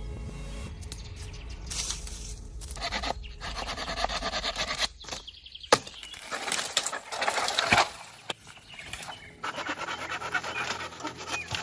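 Rasping, scraping work on wood in several bursts of a second or two, each a rapid run of clicks, with a couple of sharp knocks in between.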